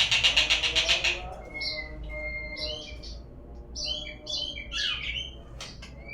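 Murai songbird song used as a lure recording: about a second of fast rattling chatter, then a string of varied whistled phrases with rising and falling notes.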